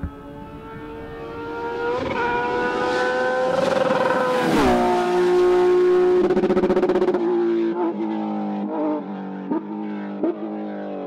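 Rally car engine at high revs, its note climbing and growing louder as it approaches, then dropping sharply to a lower pitch about four and a half seconds in. The sound then turns duller, with a few short sharp cracks near the end.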